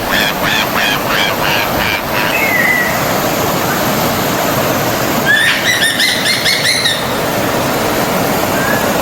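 A stream of water running steadily, with small birds chirping over it: a quick run of repeated chirps in the first two seconds, a short falling note, and another brief run of chirps a little past the middle.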